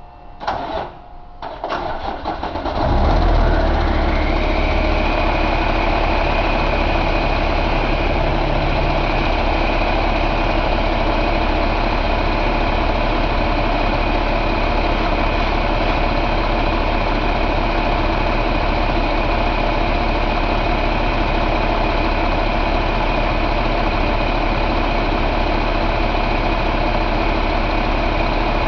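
2015 Cummins ISX15 inline-six diesel engine cranking for about two seconds, catching about three seconds in and settling into a steady idle with an even low pulse. A high steady whine joins a second later.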